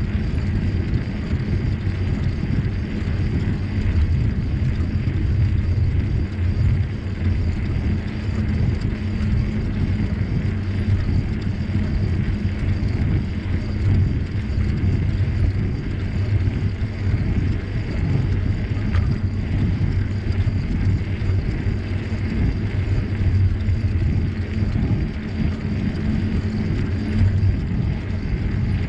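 Steady low rumble of wind buffeting the microphone, mixed with bicycle tyres rolling on the trail, during a ride.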